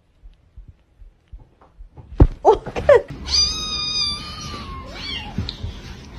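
A cat meowing: a thump and a couple of short gliding calls about two seconds in, then one long high meow that sags slightly in pitch, and a few fainter calls near the end.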